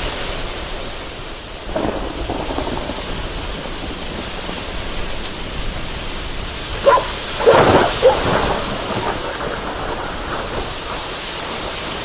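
Heavy rain falling in a steady hiss, with a short rumble about two seconds in and a louder clap and rumble of thunder about seven seconds in.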